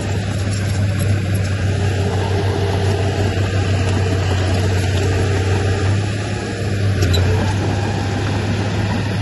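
Heavy earthmoving machine's diesel engine running steadily with a low, constant drone.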